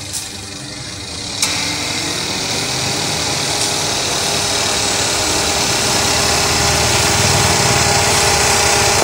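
Perodua Myvi 1.3-litre 16-valve twin-cam engine running, breathing through a Simota Turbo Twin Fan in its air intake. After a click about a second and a half in, the engine rises in pitch and grows steadily louder, with a strong airy intake hiss over the engine note.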